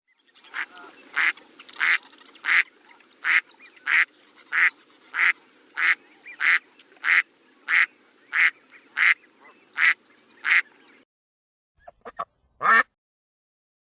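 A duck quacking in a steady series of about fifteen short quacks, roughly one and a half a second, over faint background hiss that cuts off about eleven seconds in. After a short pause come a few brief sharp sounds near the end, the last the loudest.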